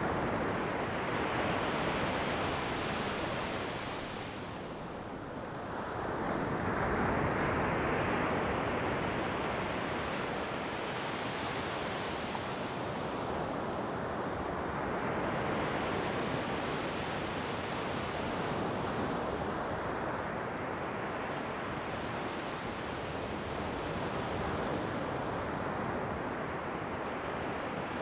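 Ocean waves breaking and washing up a shore: a steady surf hiss that swells and ebbs with each wave, about every five seconds, with a brief lull about five seconds in.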